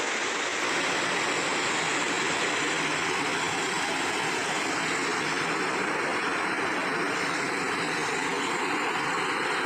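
Steady rush of a rocky mountain stream, an even noise with no breaks.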